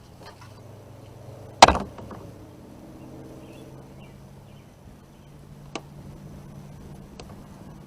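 A single sharp knock, as of something striking the kayak, about a second and a half in, then a couple of faint clicks over a low steady hum.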